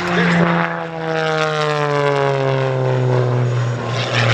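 MXS-RH aerobatic plane's 380-horsepower engine and propeller passing close by. Its engine note drops steadily in pitch from about half a second in until near the end as the plane flies past.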